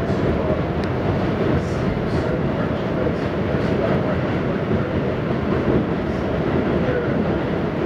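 Inside an R68 subway car running between stations: a steady rumble of wheels on rails and running gear, with a faint wavering whine.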